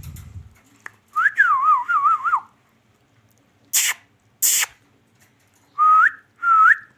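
Pet parrot whistling: a warbling, wavering whistle about a second in, two sharp smacking clicks in the middle, then two short rising whistles near the end.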